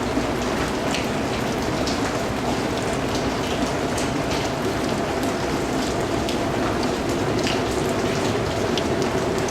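Steady rain falling, with individual drops pattering and ticking on a surface.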